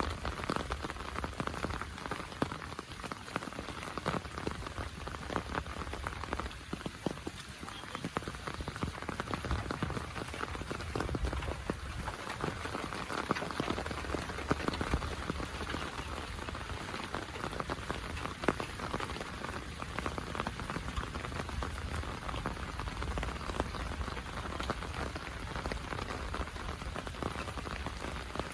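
Heavy rain falling steadily, a dense patter of drops on surfaces, with a steady low rumble underneath.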